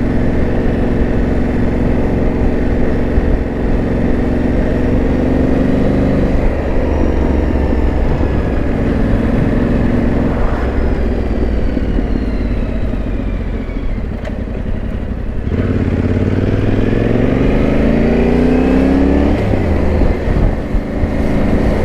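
Yamaha Ténéré 700's parallel-twin engine running under way. It eases off about six seconds in, then pulls again from about fifteen seconds with a rising pitch, which drops at a gear change near twenty seconds.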